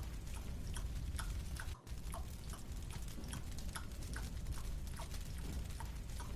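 Marshmallow being chewed: small, irregular moist clicks about two or three a second over a low steady rumble, with a brief dropout in the audio about two seconds in.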